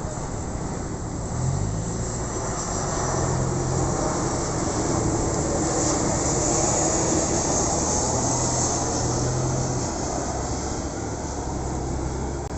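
Airliner passing overhead, its engine noise swelling to a peak about halfway through and then slowly easing off.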